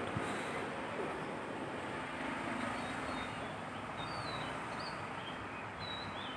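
Small birds chirping over a steady background hiss, with short high chirps from about four seconds in.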